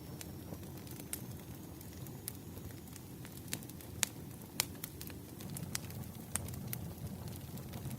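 Campfire burning: a steady low rush of flame with scattered sharp crackles and pops from the wood, the sharpest a pair about halfway through.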